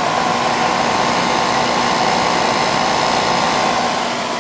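Idylis 12,000 BTU portable air conditioner (built by Danby) running in cool mode, its rotary compressor and condenser fan on: a steady rush of blown air with a steady hum underneath. No exhaust hose is fitted, so the air blows straight out of the unit.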